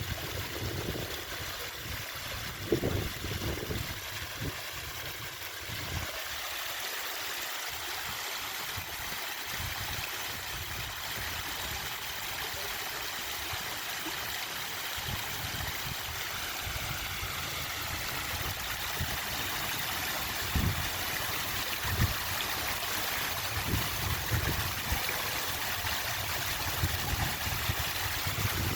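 Water pouring steadily down an artificial rock-stone waterfall fountain, a continuous splashing rush, with a few low thumps near the start and again in the last third.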